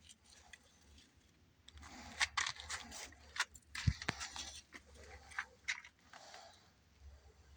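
Puppy gnawing on a manzanita branch: a run of sharp crunches and clicks of teeth on wood in the middle stretch, quieter at the start and end.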